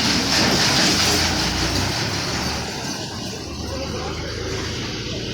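Massey Ferguson 385 tractor's diesel engine running under load with a noisy rattle. The sound is loudest in the first couple of seconds and eases slightly after that.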